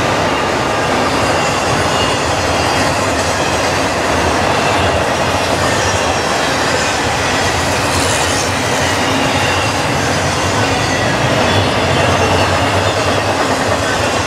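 CN intermodal freight train's cars rolling past at track speed: a loud, steady rumble and rush of steel wheels on the rails, with faint brief wheel squeals.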